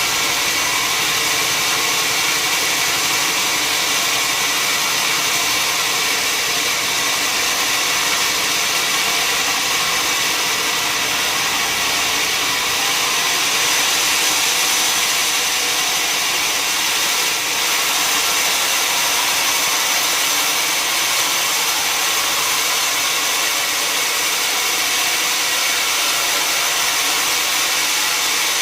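Sawmill saw running steadily: a loud, even high hiss and whine with several held tones.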